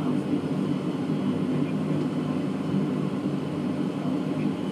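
Steady engine hum and air rush of an Embraer ERJ-145 regional jet, its rear-mounted Rolls-Royce AE 3007 turbofans running, with a faint steady high whine.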